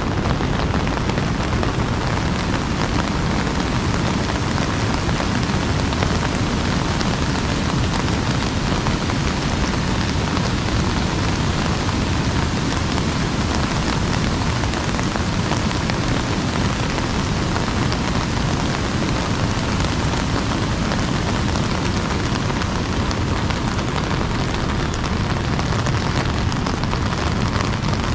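Steady rain falling on an umbrella, an even, unbroken patter.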